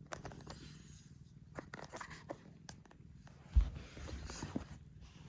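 Cats moving about: scattered light clicks and rustles, with one heavy thump about three and a half seconds in.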